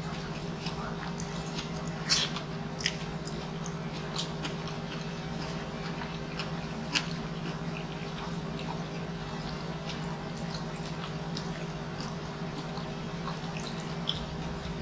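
Close-miked chewing and wet mouth sounds of a man eating rice and meat with his hands, with scattered sharp clicks and smacks, the loudest about two, three and seven seconds in and near the end. A steady low electrical hum lies under it.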